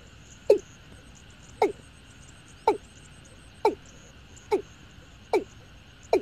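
Watercock calling: a series of short, low notes, each dropping in pitch, about one a second and gradually quickening, over a faint steady hiss.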